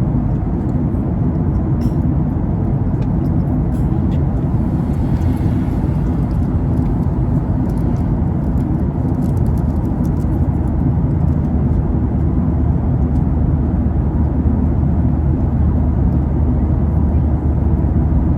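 Steady low rumble of an airliner cabin in flight: engine and airflow noise, with a low hum that grows a little stronger about halfway through.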